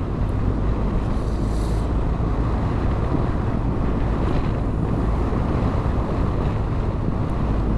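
Wind rushing over a helmet microphone while riding a BMW R 1250 GS, with the steady low drone of its boxer-twin engine underneath.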